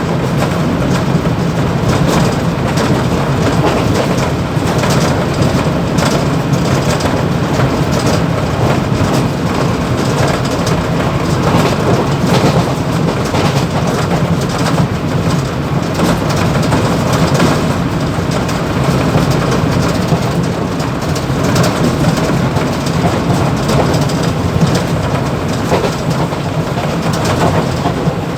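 Mumbai local EMU train running at speed, heard inside the motorman's cab: a loud, steady rumble of wheels on rail with continuous rattling from vibration in the cab.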